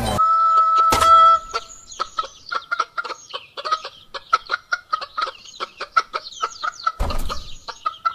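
Chicken clucking sound effect: a held high squawk, then a long run of rapid, chattering clucks, about five a second. There is a brief sharp noise about a second in and a short rushing burst near the end.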